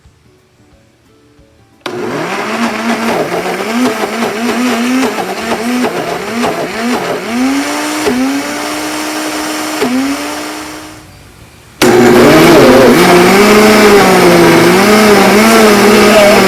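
Countertop blender blending saba bananas with sugar and oil. The motor starts about two seconds in, its pitch repeatedly dipping and climbing back; it winds down briefly near ten seconds in and starts again, louder and steadier, about two seconds later.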